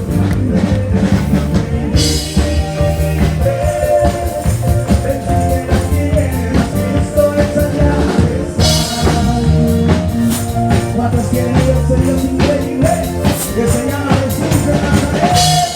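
Live worship band playing an upbeat song with drum kit, bass and keyboards, with cymbal crashes about two seconds in, after about eight seconds, and near the end.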